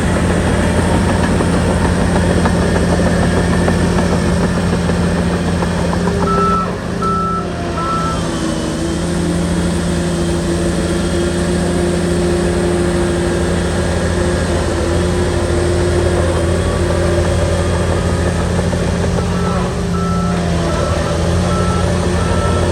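Shantui bulldozer's diesel engine running steadily, with its reversing alarm beeping: three beeps about six seconds in, then repeated beeps again near the end.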